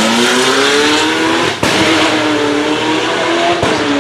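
Supercar engine accelerating hard past on the hillclimb course, its pitch rising. A sharp gear change cuts in about one and a half seconds in and another comes near the end, each followed by the engine pulling again.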